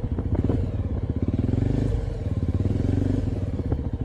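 Suzuki Thunder 250 motorcycle's single-cylinder engine running with an even pulsing beat, picking up twice in brief revs in the middle.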